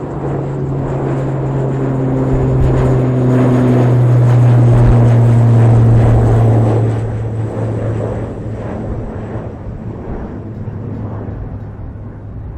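Airliner taking off at full power: a steady low drone that grows louder, peaks midway and then fades as the aircraft climbs away. Gusty wind rumbles on the microphone.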